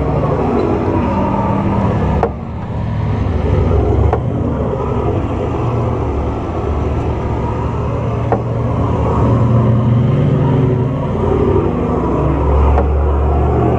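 Four-wheel-drive engines running as the vehicles crawl along a soft sand track, the engine pitch rising and falling as they pull through the sand. The sound breaks off sharply a few times where shots are joined.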